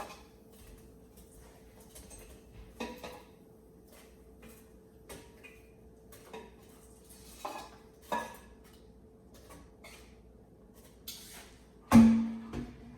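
Kitchen utensils and dishes clicking and knocking now and then as air-fried chicken pieces are handled, with one loud metallic clang that rings briefly near the end. A faint steady hum runs underneath.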